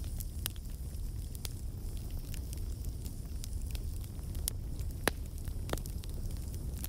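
Wood fire in a fireplace crackling, with a low steady rumble of the flames and irregular sharp pops, the loudest about five seconds in.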